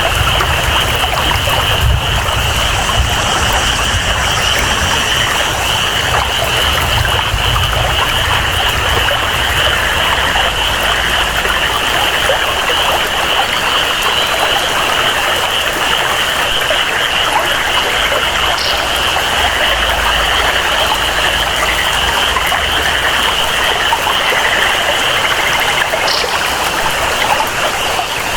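Steady rush of flowing water and rain, with a constant high-pitched jungle chorus of calling frogs and insects shimmering over it.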